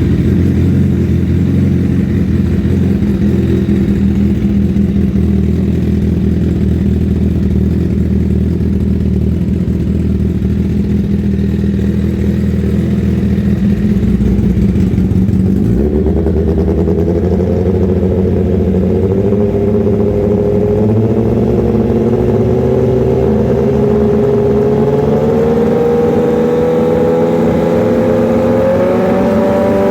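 Honda CBR1000RR SP Fireblade's inline-four engine running through an Austin Racing exhaust, just after start-up. It idles steadily for about fifteen seconds, then the revs climb slowly and steadily through the second half.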